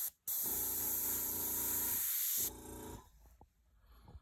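Airbrush spraying paint in a steady hiss, with the air compressor humming underneath; it breaks off briefly just after the start and stops about two and a half seconds in.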